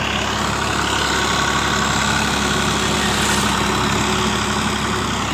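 Universal 533 tractor's diesel engine running steadily at an even pitch.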